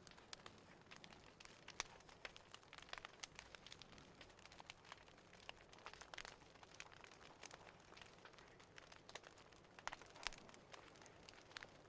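Faint wood fire crackling, with irregular small pops and snaps.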